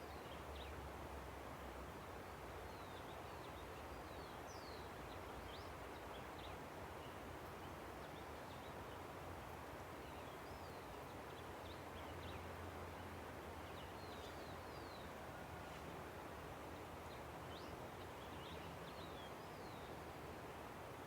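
Steady rush of a river, with small birds chirping throughout in many short, high calls.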